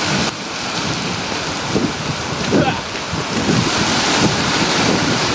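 Heavy rain falling steadily, with wind gusting against the microphone.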